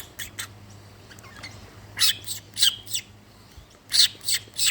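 A bird calling in short, sharp notes: two near the start, a quick run of about four around two seconds in, and three more near the end.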